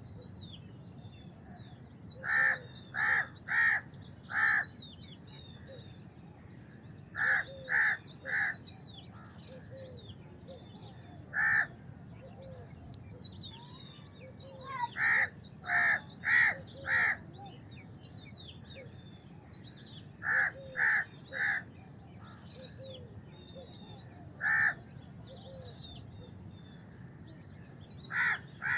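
House crow cawing: short caws in groups of three or four, about half a second apart, with single caws between the groups. A constant high twittering of small birds runs underneath.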